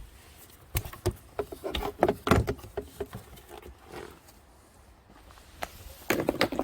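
Scattered clicks and knocks of a plastic cover being unhooked from its corner clips and handled, in small clusters about a second in, around two seconds in, and again near the end.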